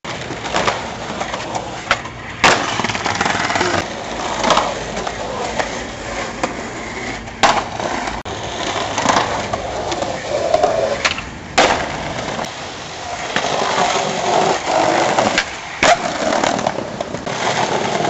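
Skateboard wheels rolling on hard ground, with sharp clacks of the board popping and landing. The loudest clacks come four times, a few seconds apart.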